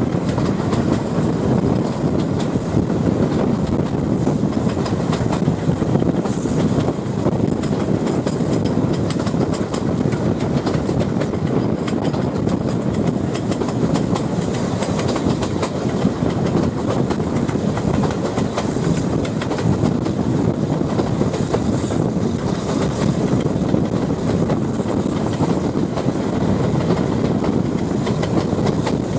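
Passenger coaches of a steam-hauled train running at speed, a steady rumble of wheels on rails with the clickety-clack of wheels over the rail joints, heard from an open carriage window.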